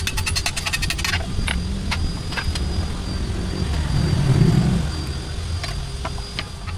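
Rapid machine hammering on metal, about nine blows a second, stops about a second in. A few single sharp strikes on metal follow over a steady low machine rumble.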